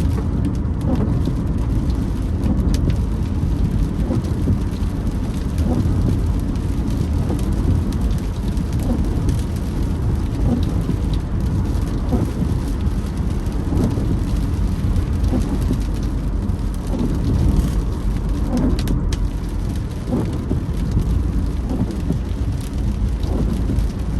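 Rain on a moving car heard from inside the cabin: a steady rumble of tyres and rain on the body, with the windscreen wipers creaking across the wet glass at a regular beat.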